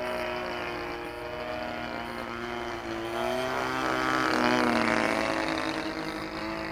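Radio-controlled model airplanes flying overhead: the motors and propellers drone with several tones that bend in pitch. It grows louder around four to five seconds in as a plane passes close.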